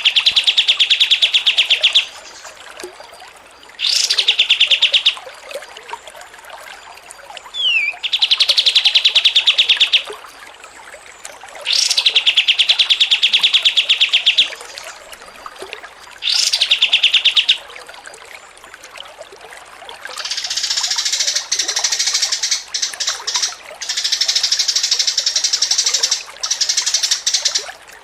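Songbird song: five rapid trills of one to two seconds, each opening with a quick upsweep, spaced a few seconds apart. About two-thirds of the way through, a dense, continuous chattering takes over.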